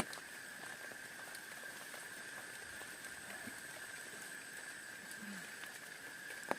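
Steady rain with scattered drops tapping, under a constant high-pitched drone.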